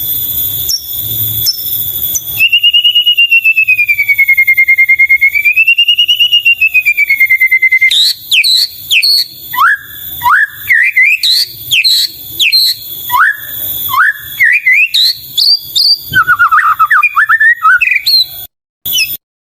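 White-rumped shama singing: a long, slowly wavering whistle for about five seconds, then a fast run of short swooping notes that rise and fall. The sound cuts out briefly near the end.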